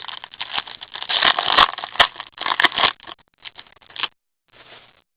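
Crinkling and scraping as trading cards and their plastic wrapping are handled, with a few sharp clicks among the crackle. It thins out about four seconds in.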